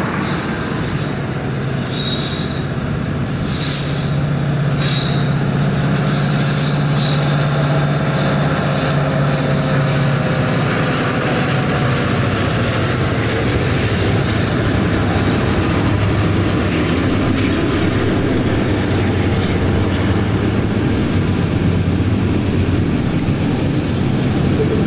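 Freight train rolling past: a steady rumble of wheels on rail, with a thin, high wheel squeal that slowly drops in pitch and fades.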